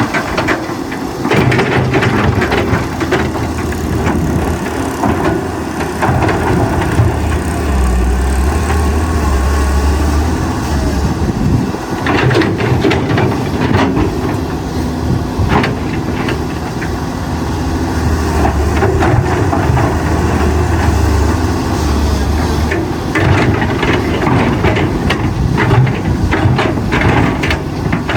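Excavator at work: its engine runs steadily and swells twice as it takes load, with repeated sharp clanks and knocks throughout.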